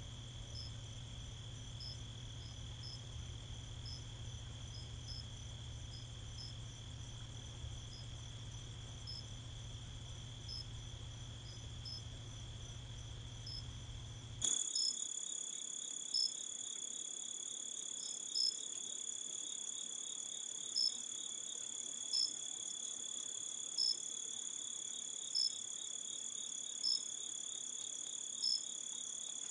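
A chorus of insects, crickets or katydids, with a steady high-pitched trill and a short high chirp repeating every second or two. There is a low hum in the first half. About halfway through, the hum stops and the chorus gets louder, and the repeated chirps become the loudest sound.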